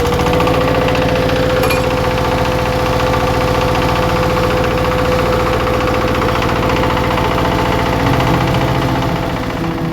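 Power tiller's single-cylinder diesel engine chugging steadily with a fast, even knock, a steady whine riding over it that rises briefly at the start.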